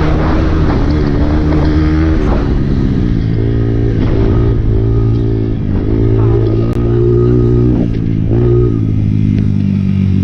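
Honda CRF dirt bike's four-stroke single-cylinder engine under riding load, revving up and dropping back several times as the throttle is opened and shut.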